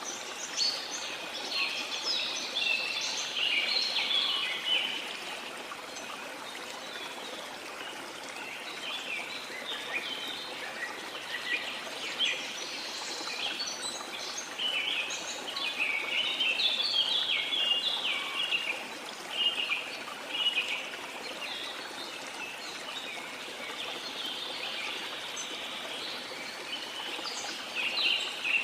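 Tropical rainforest ambience: many birds chirping and singing in quick, overlapping high notes over the steady rush of a waterfall. The birdsong comes in busier spells, in the first few seconds, through the middle and again near the end.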